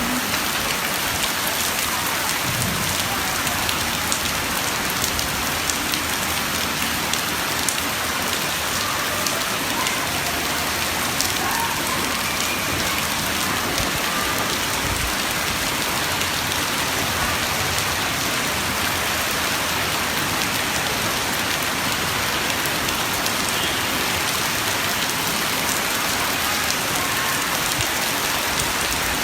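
Steady, dense pattering of countless small splashes on water, like heavy rain on a water surface.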